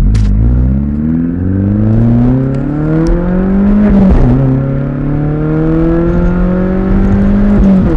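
Straight-piped exhaust of a 2001 VW GTI's turbocharged 1.8-litre four-cylinder under hard acceleration. The engine note climbs steadily, drops at a gear change about four seconds in, then climbs again until another shift near the end.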